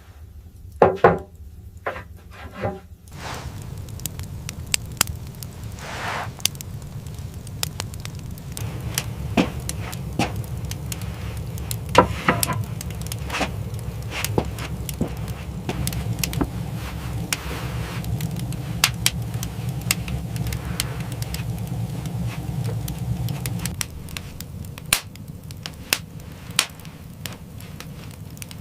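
Irregular sharp knocks and cracks over a steady low rumble, which drops away about four seconds before the end.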